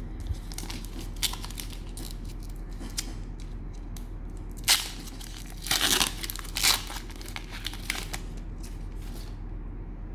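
Cellophane wrapper of a trading-card cello pack crinkling and tearing open in a run of sharp crackles, loudest about five to seven seconds in, over a steady low hum.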